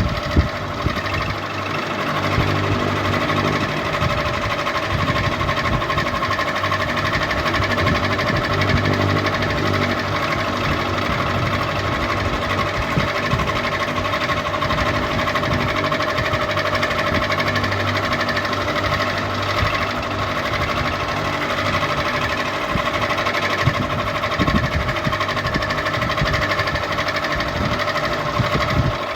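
Ceiling fan running steadily, with a steady hum and a fast, even mechanical rattle.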